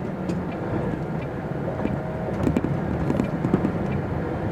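MAN TGX articulated lorry's diesel engine running as the truck drives slowly, a steady low drone, with a few knocks and rattles in the middle.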